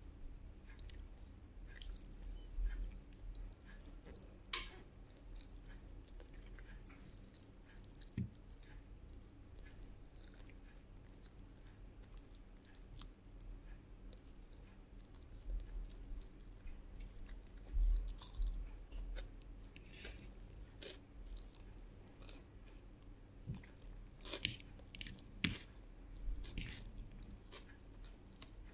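Close-miked chewing and mouth sounds of someone eating rice, fried egg and fried fish, with scattered soft clicks and smacks that come in clusters.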